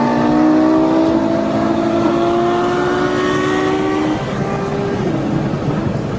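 Car engine accelerating, its pitch climbing slowly, then dropping in steps about four and five seconds in.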